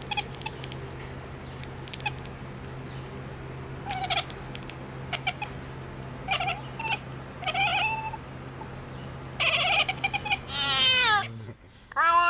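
A cat meowing in several short calls, then one longer call that falls in pitch near the end, over a steady low hum.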